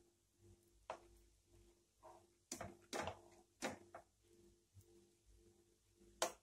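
A few light knocks and clicks, the loudest near the end, over a faint pulsing hum.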